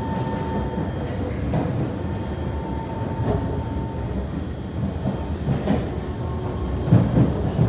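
Kawasaki C151 metro train running at speed, heard from inside the car: a steady rumble of wheels and running gear, with a sharp click every second or two as the wheels cross rail joints, the loudest near the end. A thin steady whine fades out in the first seconds.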